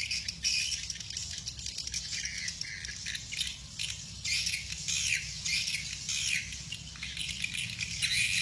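Swiftlet calls: a dense chorus of short, high chirps, many sliding downward, with a steady low hum beneath.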